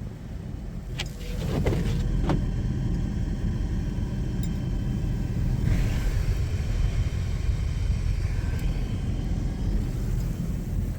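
Car driving with a steady low rumble of road and engine noise. A few sharp clicks sound in the first couple of seconds, and the rumble grows louder about a second and a half in.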